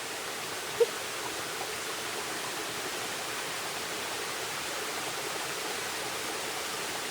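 Steady rush of flowing stream water, with one brief short sound just under a second in.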